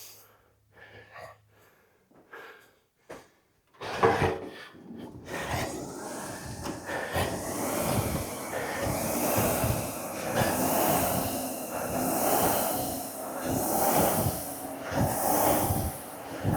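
Ski erg's air-resistance flywheel spinning up and whooshing with each pull, in a steady rhythm of about one pull every second and a half, with heavy breathing. A sharp knock about four seconds in, just before the flywheel starts.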